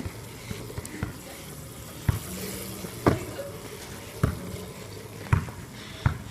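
A series of sharp knocks or thumps, about one a second, over a faint low hum.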